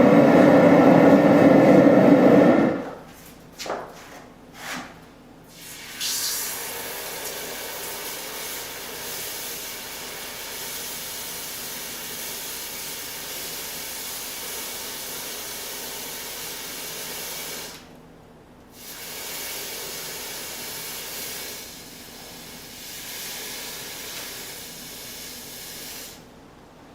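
A forge burner heating the head of a small forged hatchet. It runs loudly for the first few seconds, then gives a steady hiss in two long stretches with a short break between them.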